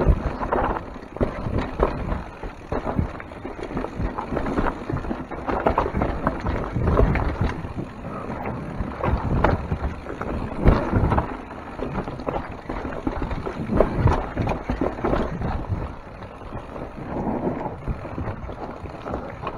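Mountain bike descending a rough trail: steady wind and tyre rumble on the camera's microphone, with frequent clatters and knocks as the bike rattles over rocks and roots.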